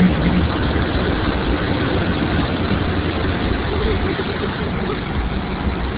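Automatic car wash running: a loud, steady rush of water and machinery with a low rumble underneath.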